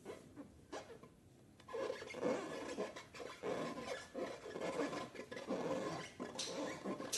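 Hands rubbing and squeezing slime-filled rubber balloons, making irregular rasping, squishing handling sounds that start about a second and a half in and keep going.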